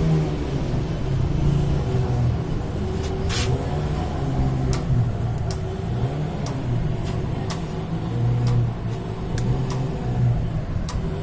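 Motorcycle engine running steadily, its note wavering a little, with a few sharp clicks scattered through.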